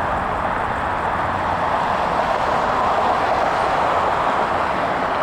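Jet engines of a Boeing 767-200ER at high power on departure, a steady loud noise.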